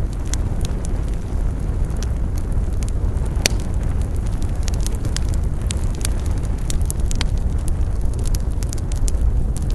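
Wood campfire burning, crackling and popping irregularly over a steady low rumble of flames, with one sharper pop about three and a half seconds in.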